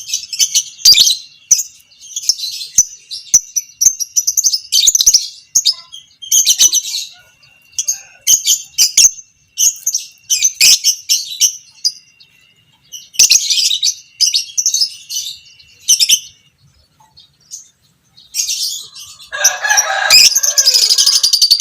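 Lovebird giving its shrill, rapid chattering call ('ngekek') in repeated bursts of about a second each. There is a short pause about two-thirds of the way through, then a fuller, louder burst near the end.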